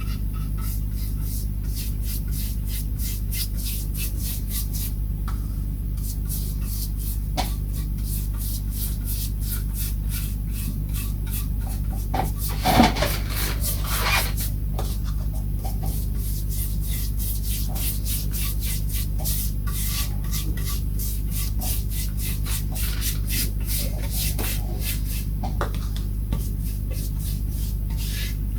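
Grain filler being rubbed into the bare wood of a Telecaster body, quick back-and-forth strokes at about three to four a second, over a steady low hum. A louder knock or handling noise comes about halfway through.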